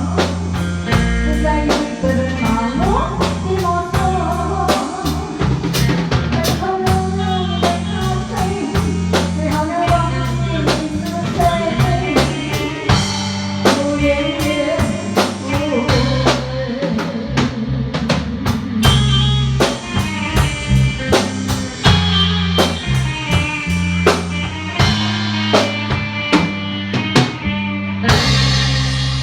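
A rock band playing in E-flat, with drum kit, bass guitar and lead electric guitar, and no singing.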